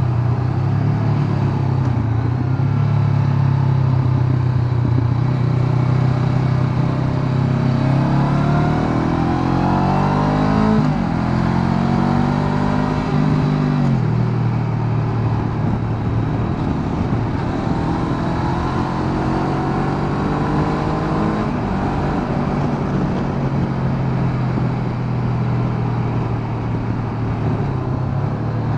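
Honda CB500X's parallel-twin engine running under way, with wind noise. Its pitch climbs and then drops sharply a few times, around a third of the way in and again past halfway, as the bike accelerates and eases off.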